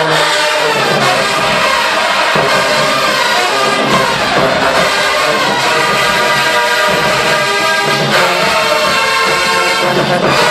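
HBCU marching band playing loudly: a full brass section with trombones and trumpets sounding a sustained tune over steady drumming.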